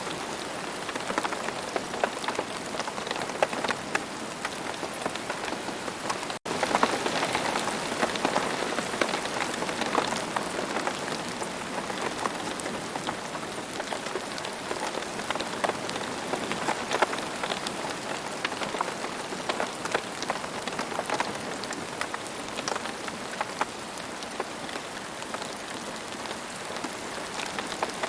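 Steady rain falling: a dense, even hiss with many small drop ticks. It cuts out for an instant about six seconds in.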